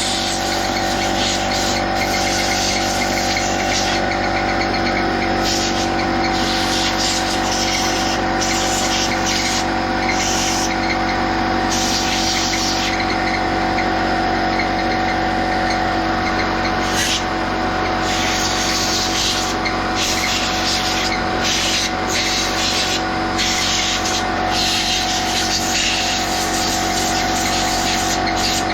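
An air compressor runs steadily with a constant hum while a blow gun hisses in short on-off blasts of compressed air, blowing grime and cleaner off a small engine.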